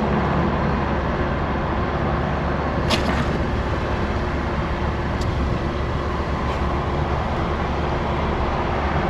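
Vehicle engine idling, heard from inside the cab, as a steady low hum. A sharp click comes about three seconds in.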